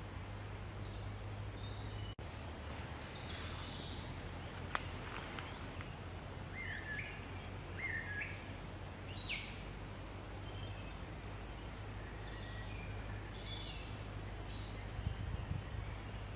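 Small songbirds chirping, many short calls and quick pitch-sliding notes overlapping one another, over a steady low hum.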